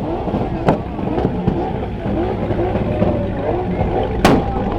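Dodge Hellcat's supercharged V8 running loudly, with two sharp bangs: one under a second in and one near the end.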